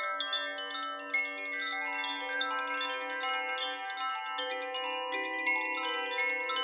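Chimes ringing in a continuous shimmer, with fresh strikes several times a second over many overlapping, lingering tones.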